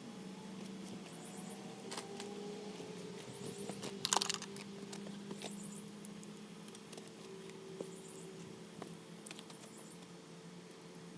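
Light scattered clicks and rattles of tools and metal parts being handled, with a louder cluster of clatter about four seconds in, over a faint steady hum.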